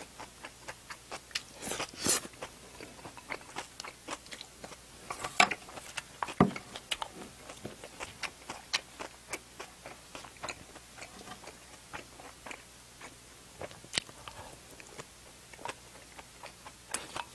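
A person chewing and biting food close to the microphone: irregular wet clicks and smacks of the mouth, with a few louder bites standing out.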